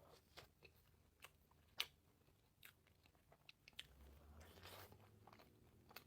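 Faint chewing close to the microphone: scattered soft mouth clicks and smacks, one a little louder about two seconds in.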